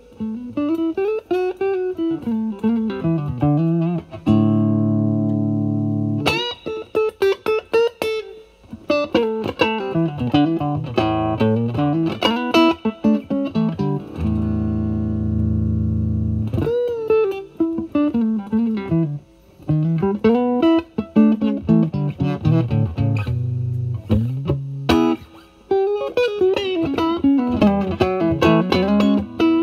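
Fender Stratocaster played through a Vertex Steel String Clean Drive MK1 overdrive pedal, set at low gain (1–2), into a Marshall Valvestate amp's clean channel. It plays bluesy single-note lead lines with string bends, broken by two held chords about four and fourteen seconds in.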